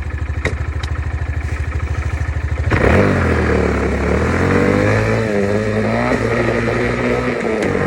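Four-stroke Honda dirt bike engine idling with an even pulse, with two sharp clicks in the first second. About three seconds in it revs up hard for a second-gear start and the bike pulls away, the engine pitch rising and falling as it is ridden.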